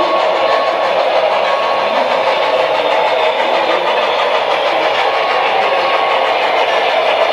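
Model steam locomotive's DCC sound decoder playing steady steam running sounds through its small onboard speaker, an even rushing noise without distinct beats.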